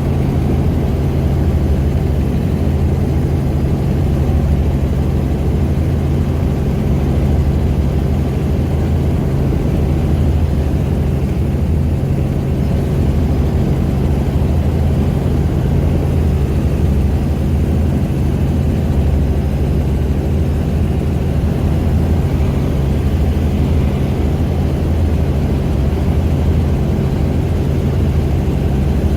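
Helicopter in flight: a loud, steady drone of engine and rotor with a low, even hum that does not change.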